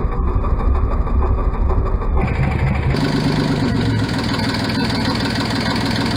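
Universal M25 three-cylinder marine diesel running steadily. About three seconds in the sound changes abruptly, the deep low rumble giving way to a brighter, higher clatter.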